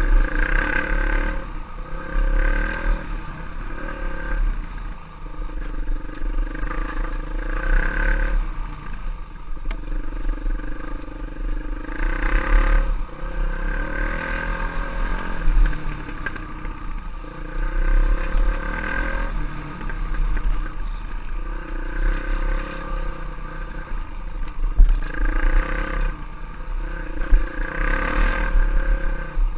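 Enduro trail bike engine running under load, its revs rising and falling every few seconds as the throttle is worked, over a constant deep rumble.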